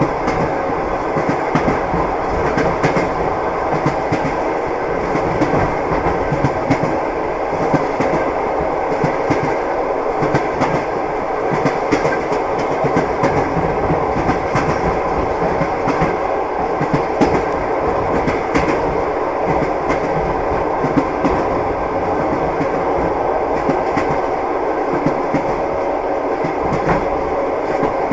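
Moving train's wheels running over the rails: a steady rumble with scattered clicks and knocks from the wheels and rail joints.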